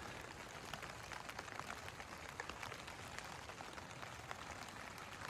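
Steady heavy rain falling on a Hilleberg tent's fabric, a faint even hiss dotted with the small ticks of individual drops striking the tent.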